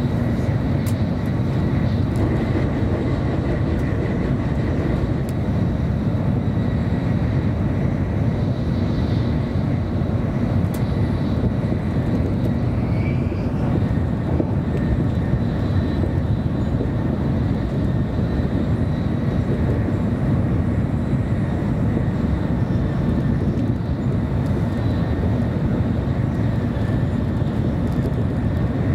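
Steady cabin noise of a 700 series Shinkansen running at speed: a dense, even low rumble with a faint steady high whine above it.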